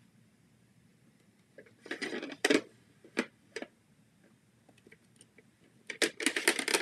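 Stamp ink pads in plastic cases being handled and picked out: scattered clicks and clatters, in a cluster about two seconds in, a couple of single clicks, then a denser run of clicks near the end.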